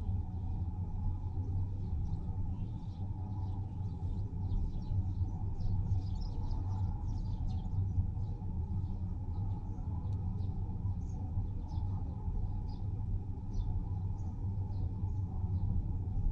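Steady low road rumble from a car driving, with birds chirping in many short, high chirps from about four seconds in.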